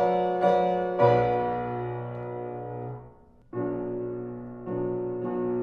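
Solo piano playing slow, sustained chords that ring and fade, with a brief pause about three seconds in before the next chords.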